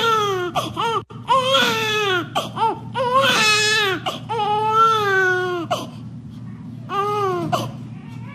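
Baby crying in a series of wails, each rising and falling in pitch, with a short pause before a last wail near the end.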